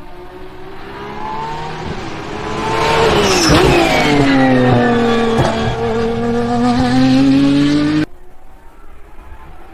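Lamborghini Essenza SCV12's naturally aspirated V12 running at high revs. The engine note climbs, drops sharply about three and a half seconds in, then slides slowly down, and the sound cuts off suddenly about eight seconds in.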